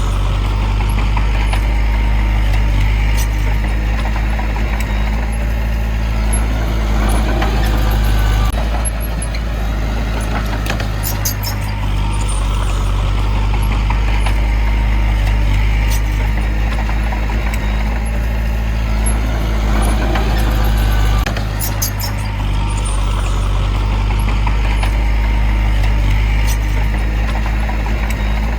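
Diesel engine of heavy earthmoving machinery running under load, its note swelling and easing every few seconds. Faint clicking comes in twice.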